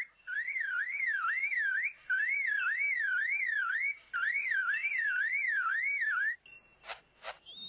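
Superb lyrebird mimicking a car alarm: a warbling siren-like tone that rises and falls about three times a second, in three long bursts with short breaks. Near the end come two brief sharp calls.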